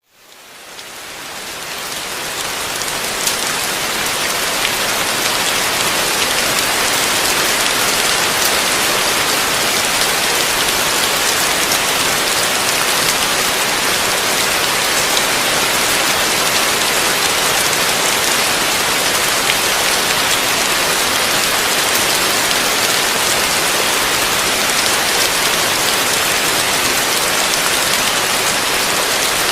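Heavy rain falling steadily, a dense even hiss of drops with occasional sharper drop ticks, fading in over the first few seconds.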